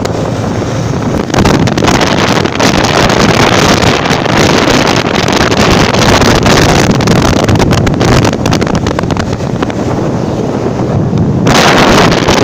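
Wind buffeting the microphone of a moving motorcycle, over a steady rumble of the bike and road traffic. The rush grows louder and hissier near the end.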